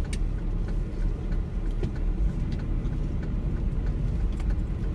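Car engine and road noise heard from inside the cabin as the car moves slowly: a steady low rumble, with faint, evenly spaced ticks.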